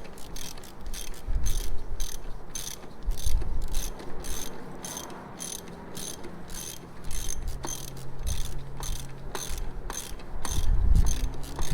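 Hand ratchet wrench clicking steadily, about three clicks a second, as bolts are turned down a little at a time. Low thuds and a faint steady hum sit underneath.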